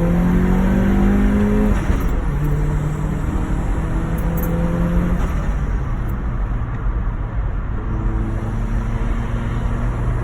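Turbocharged Vauxhall Zafira engine with a hybrid turbo running under load. Its note rises for the first two seconds and drops off sharply as the throttle closes, then holds steady, eases off again around five seconds in and comes back steady near the end.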